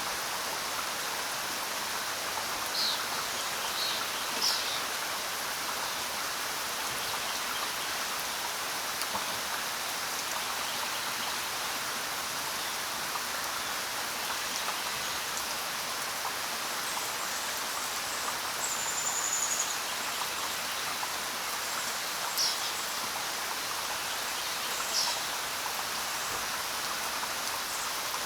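Steady rain falling, with a few short, high bird chirps now and then, twice near the end.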